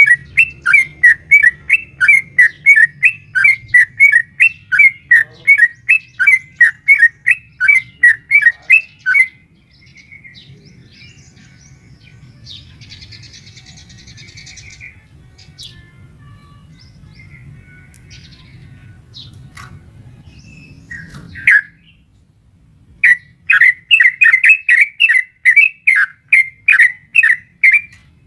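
Yellow-vented bulbul (trucukan) giving a long, rapid run of loud repeated chirping notes, about three a second. It breaks off for about twelve seconds, leaving only faint scattered sounds and a low hum, then starts the rapid run again near the end.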